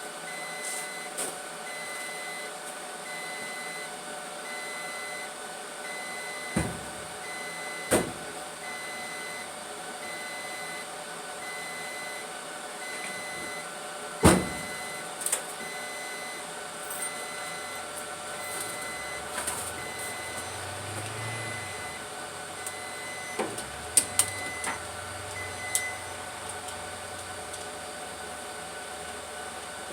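Electronic beeping, an even high beep about once a second, over a steady hum, with a few sharp knocks.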